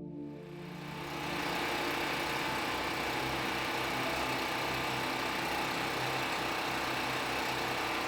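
A small engine running steadily at constant speed, fading in over the first second and a half, as a pump drains floodwater out of a flooded cellar.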